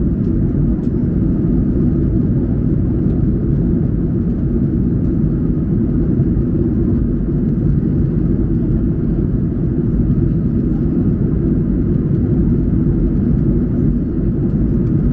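Steady cabin noise inside a Boeing 737-800 in flight: an even, low rumble of airflow and its CFM56-7B turbofan engines, with no change in pitch or level.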